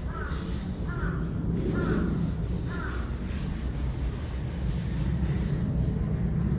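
A crow cawing four times, about a second apart, over a steady low rumble, with a few short, high-pitched calls from a small bird scattered through.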